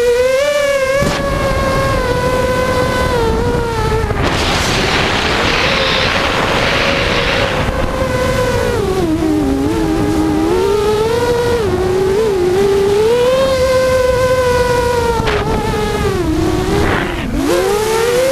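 FPV drone's motors and propellers whining, the pitch wavering and swooping up and down as the throttle changes. A rushing noise joins in for a few seconds about four seconds in.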